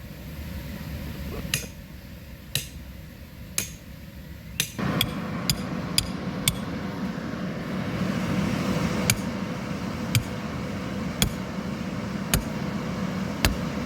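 Hammer striking metal ground stakes to drive them in, sharp knocks at about one a second. A steady mechanical hum starts abruptly about five seconds in and runs under the strikes.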